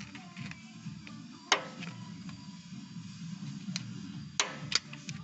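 Camshaft of a Lada Kalina 1.6 8-valve engine being shifted back and forth along its axis by hand, giving a few sharp knocks at irregular spacing as it hits its stops. The knocks show excess axial play in the camshaft, a cause of knocking in the cylinder head that valve shim adjustment does not cure.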